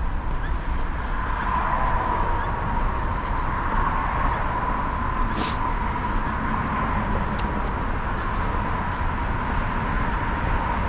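Steady road traffic noise, the hiss of tyres thickening a little after about a second and a half, over a low rumble.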